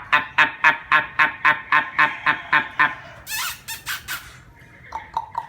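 Caged songbird singing: a fast run of repeated harsh notes, about four a second for three seconds, then a short high scratchy phrase and a few softer notes near the end.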